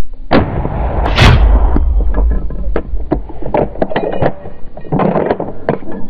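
Hunting gunfire at a wild boar: a sharp shot about a third of a second in and a louder blast just over a second in, followed by an irregular string of quicker cracks and knocks.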